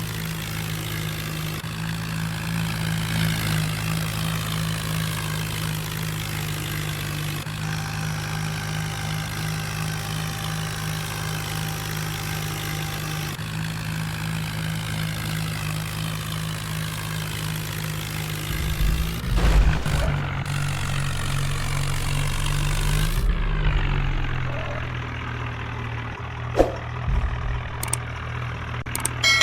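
Diesel tractor engine running steadily, with a few sudden knocks and low thumps in the last third.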